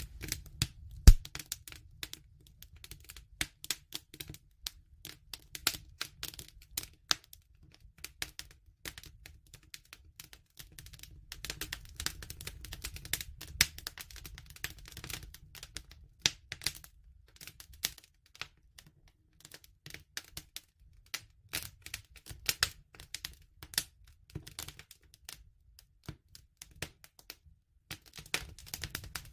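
Wood fire crackling: irregular sharp pops and snaps over a low steady rumble of the flames, with one loud pop about a second in.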